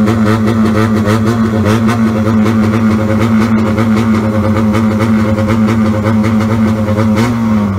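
Custom Honda motorcycle engine idling steadily through its open exhaust, with a slight rise in revs near the end.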